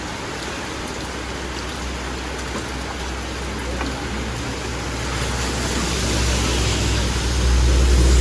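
Heavy rain falling, a steady hiss. From about five seconds in, a low rumble builds and grows louder.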